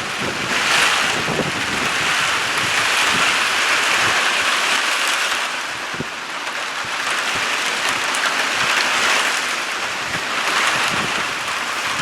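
Storm wind rushing past the boat, a steady hiss that swells and eases every few seconds, with wind buffeting the microphone.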